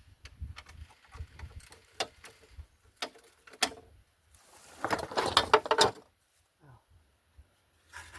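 Metal hand tools clicking and clattering against the suspension, with a louder burst of rapid clicks about five seconds in.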